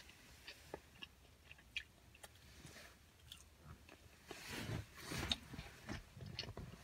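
Faint chewing of a chicken nugget, with small scattered mouth clicks and a louder stretch of chewing about halfway through.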